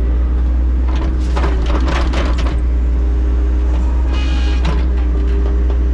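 Diesel engine of heavy equipment running steadily with a deep, constant rumble, and a brief higher-pitched whine about four seconds in.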